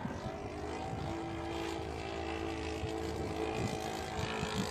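Engine of a Seagull Edge 540 radio-control aerobatic model plane running steadily in flight, a sustained droning tone that drifts slightly in pitch, with its fuel tank nearly empty.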